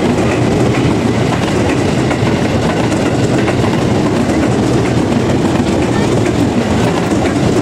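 Electric commuter train passing close by: a loud, steady rumble of its wheels running on the track.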